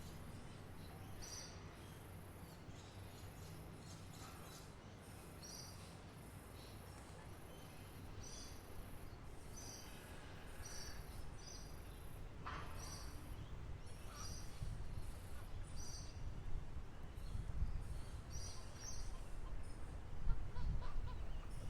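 Small birds chirping, short doubled chirps repeated roughly once a second, with one falling call about halfway through. Behind them is a high, pulsing insect-like chirring. A low rumble grows louder in the second half.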